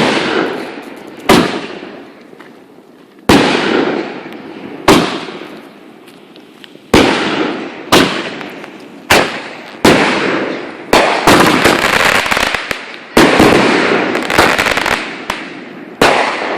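Backyard fireworks going off: about fifteen sharp bangs, each with a long fading tail, spaced a second or two apart and coming faster and overlapping in the second half.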